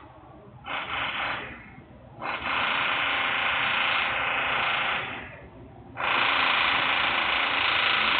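Loud industrial machinery noise coming in bursts with short breaks between them: a brief burst about a second in, a longer one of about three seconds, and another starting about six seconds in.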